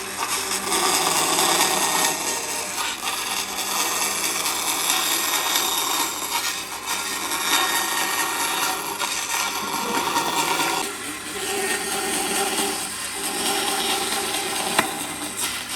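Handheld power tool running against wood, its motor noise rising and easing as it works the stump, with a sharp click near the end.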